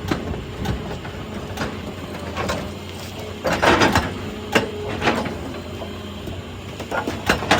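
Excavator working on rock: its engine running steadily under repeated sharp clanks and knocks, with a louder grinding crunch of rock about three and a half seconds in.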